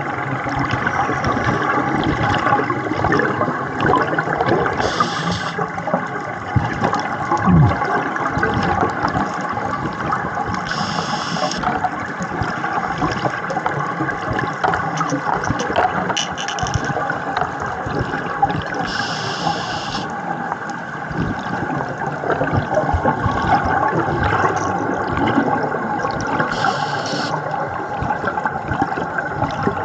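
A scuba diver breathing through a regulator, heard underwater. A short hiss on each breath comes back every five to eight seconds, and exhaled bubbles gurgle and rush continuously in between.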